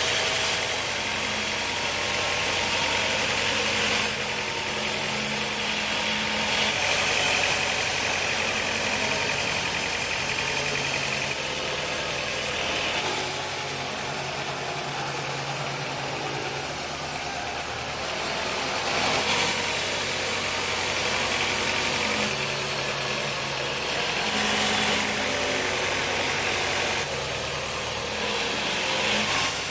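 Sawmill machinery running steadily, an engine-like hum with mechanical noise, its tone changing abruptly every few seconds.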